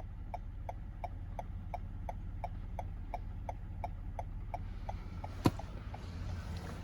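2022 Toyota Highlander XLE's hazard-light flasher ticking inside the cabin, about three ticks a second, over a low steady hum. The ticking stops after about four and a half seconds, and a single sharp click follows about a second later.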